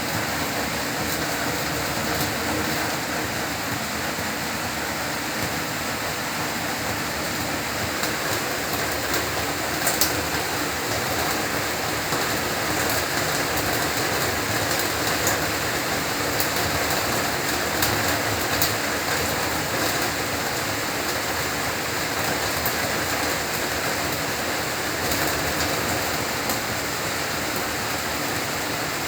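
Heavy rain falling steadily, a constant hiss with scattered sharp drop ticks, one louder tick about ten seconds in.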